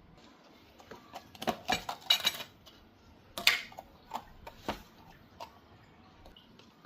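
Dishes and cutlery being handled: a quick run of clinks and clatters about a second and a half in, the loudest knock near the middle, then a few lighter taps.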